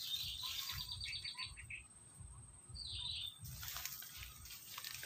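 Wild birds calling: a fast trill of repeated high notes for about a second and a half, then a shorter high call about three seconds in.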